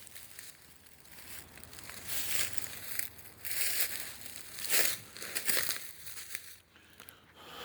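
Dry leaf litter and twigs crunching and crinkling underfoot in a handful of uneven footsteps.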